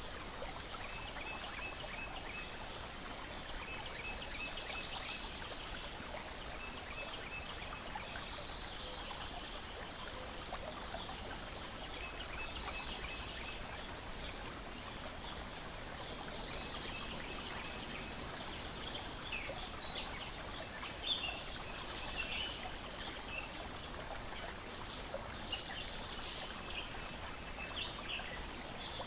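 Lakeside nature ambience: water steadily lapping and splashing, with birds chirping. A short trill recurs every few seconds through the first half, and brief chirps grow busier in the second half.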